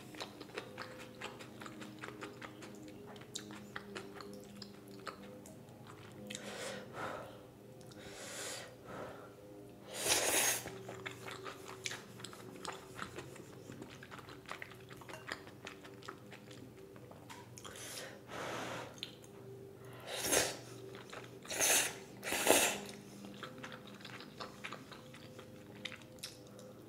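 Close-miked chewing of thick udon noodles: soft, wet mouth clicks throughout, with a few louder, short bursts about ten seconds in and again a little past the middle.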